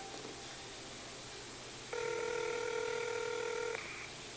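Telephone ringback tone heard through a phone's speakerphone: one steady ring about two seconds long, starting about two seconds in, as the dialled call rings at the other end.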